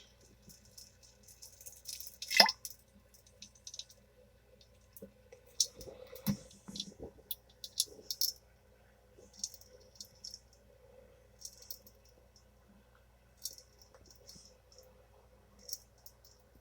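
Person defecating into a toilet, passing formed stool rather than diarrhea: short squelching and plopping sounds into the bowl water, scattered and irregular, the loudest about two and a half seconds in and a cluster of them a few seconds later.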